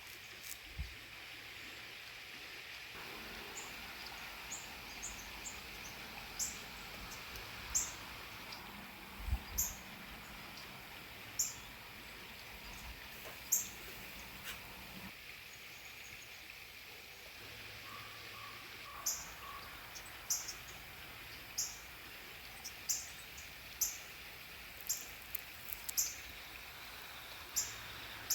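Small songbirds chirping: short, sharp, high chips at irregular intervals, about one every second or two, over a steady faint background hiss.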